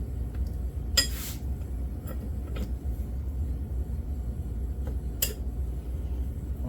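A few metallic clinks and taps of tools and engine parts being handled, the loudest about a second in with a brief ring, over a steady low hum.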